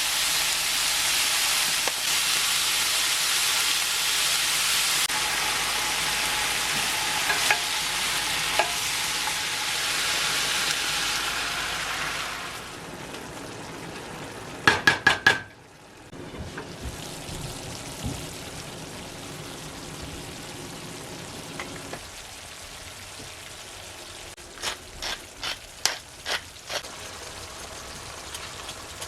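Food sizzling and frying in a pan while being stirred, loud for about the first twelve seconds, then much quieter. A few sharp clicks come about halfway through and again near the end.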